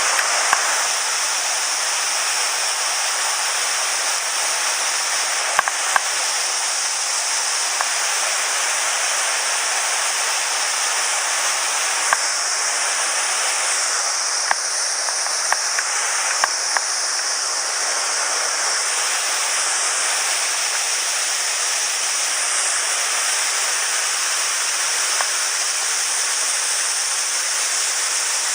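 Steady rushing of a mountain stream, an even hiss without change, with a few short sharp clicks here and there in the first half.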